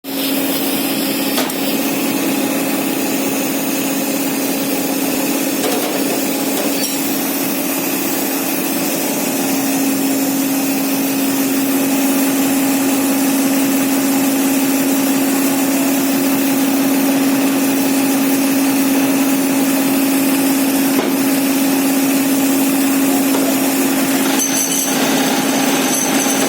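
Centrifugal rotor casting machine for ceiling-fan rotors running with a steady mechanical whir and a constant low hum. The hum grows a little louder about nine seconds in.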